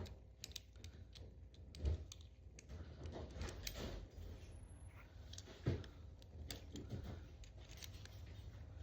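Small scattered clicks and rattles of things being handled close by, with two louder knocks, about two seconds in and just before six seconds.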